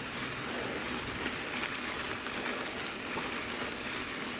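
Mountain bike tyres rolling over a dirt and gravel trail: a steady gritty hiss with a few faint ticks from stones and the bike.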